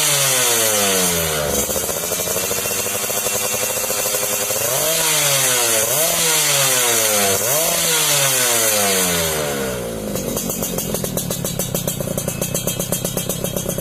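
Yamaha F1ZR two-stroke motorcycle engine with a racing exhaust, the throttle blipped several times so the pitch jumps up and falls back each time, then dropping to a steady, pulsing idle about ten seconds in.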